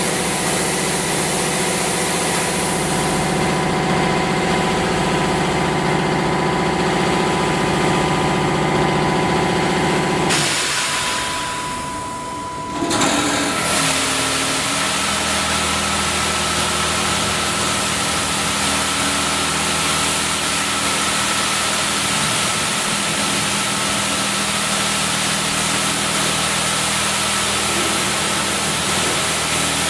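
Automatic car wash machine running with a steady mechanical hum of motors and pumps. About ten seconds in the sound fades, cuts back in abruptly a couple of seconds later, then settles into a different steady hum.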